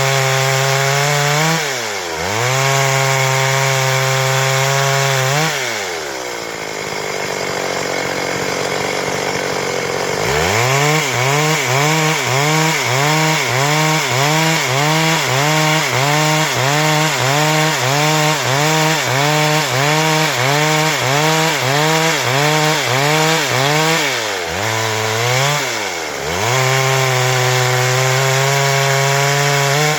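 Stihl MS 382 two-stroke chainsaw running at high revs and cutting wood lengthwise into boards. Its pitch dips briefly early on and drops away for a few seconds, then rises and falls rhythmically, about once or twice a second, before running steady and high again near the end.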